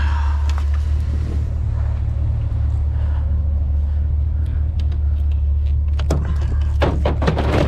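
Truck engine idling with a steady low rumble; a few knocks and clatters of things being handled near the end.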